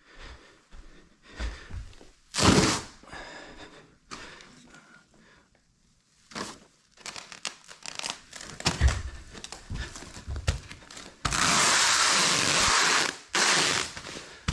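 Plastic carpet protection film crinkling and crackling as it is handled and laid, with scattered knocks. Near the end comes a loud, even ripping hiss for about two seconds as a length of film is pulled off the roll.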